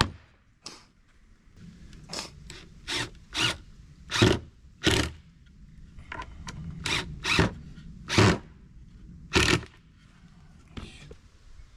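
A series of irregularly spaced rasping strokes, each under half a second, like a tool being scraped or drawn back and forth over a hard surface.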